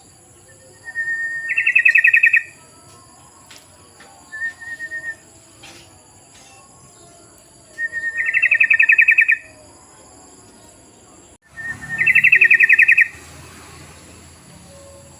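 Yellow-vented bulbul (trucukan) calling three times. Each phrase is a short clear note that runs straight into a fast, bubbling trill about a second long. A shorter, fainter call comes between the first two.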